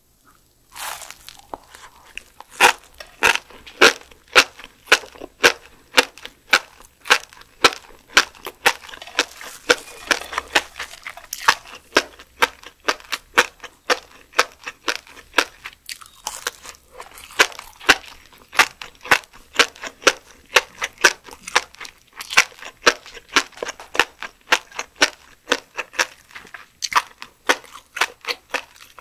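Close-miked eating of a steamed Pacific spiny lumpsucker roe slab: a steady run of crisp crunching clicks, two or three a second, as the packed fish eggs are bitten and chewed, mixed with soft tearing as the spongy slab is pulled apart by hand.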